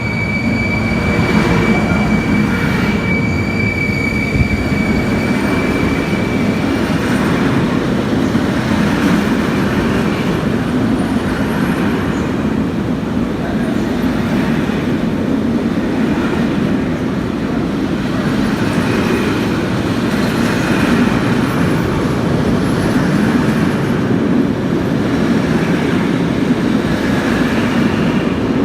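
Train rolling past on the tracks, a continuous loud rumble of wheels on rail. A steady high-pitched squeal sounds over it for about the first six seconds.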